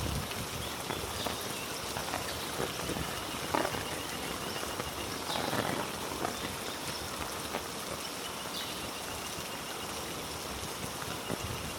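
Heavy rain falling on rainforest foliage: a steady hiss with scattered close drops landing.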